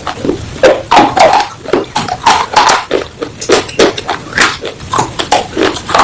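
Close-miked crunching and chewing of brittle white slate pieces: quick, crisp crunches several times a second.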